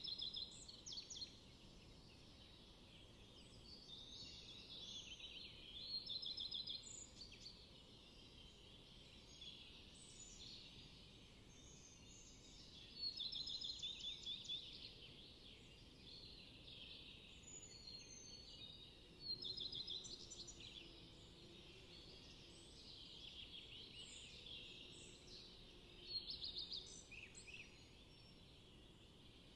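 Faint songbirds singing in short trilled bursts every few seconds, over quiet outdoor air.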